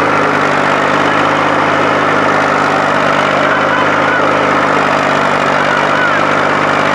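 IMT 539 tractor's three-cylinder diesel engine running steadily at constant speed.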